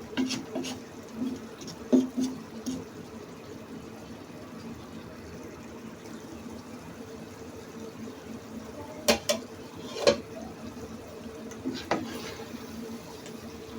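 Taro stolon and fish curry simmering and bubbling in a pan in the little water the vegetables have released, with a few sharp clicks of a utensil against the pan, several of them between about 9 and 12 seconds in.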